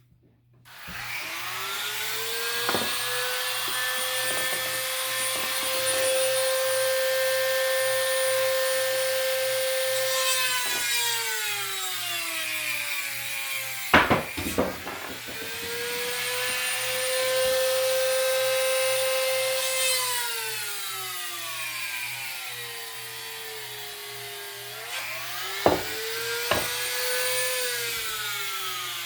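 Dremel rotary tool drilling holes into the end of a wooden frame: a high motor whine that spins up, holds steady, then drops in pitch, three times over, with a few sharp clicks.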